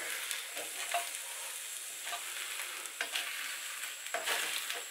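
Spanish tortilla of egg and sliced potato frying gently in oil in a frying pan, a soft steady sizzle, with a slotted spatula scraping at the edge of the pan a few times, pushing the edges back in.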